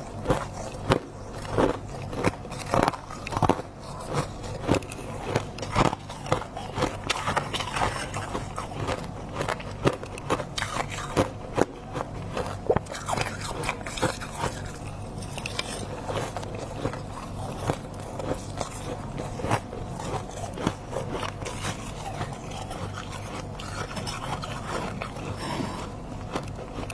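Close-miked biting and chewing of freezer frost, a run of crisp icy crunches. The crunches come thick and sharp through the first half, then give way to softer, steadier crackling chewing.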